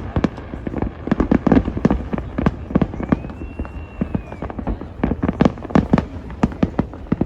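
Aerial fireworks going off in a rapid, irregular string of bangs and crackles, several a second.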